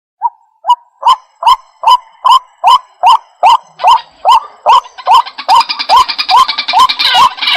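White-breasted waterhen calling: a string of short, identical notes repeated about two and a half times a second, starting suddenly. About five seconds in, a denser, higher chatter joins the calls.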